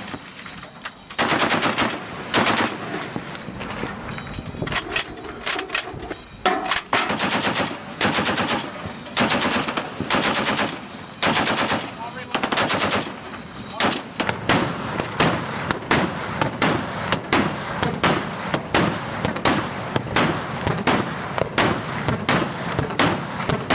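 Sustained gunfire from the ship's weapons aimed at a drifting lifeboat: dense clusters of shots at first, then from about fourteen seconds in, shots coming more evenly at about two a second.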